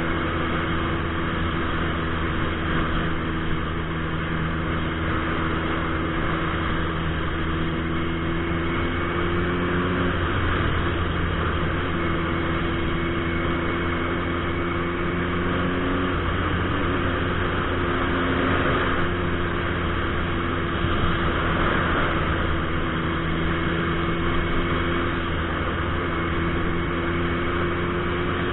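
Turbocharged Suzuki Hayabusa motorcycle engine running steadily, its pitch shifting slightly a couple of times, heard from the rider's helmet.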